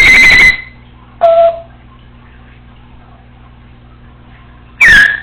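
Congo African grey parrot making three loud electronic-sounding whistles and beeps: a half-second call at the start, a short steady two-tone beep about a second in, and a falling whistle near the end, the kind of mimicry of household phone and alarm beeps she practises.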